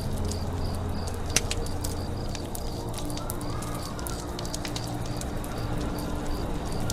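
Campfire crackling and popping over a steady low rumble, with one sharp, loud pop about a second and a half in. A faint high chirp repeats about three times a second throughout, and a brief call rises and falls near the middle.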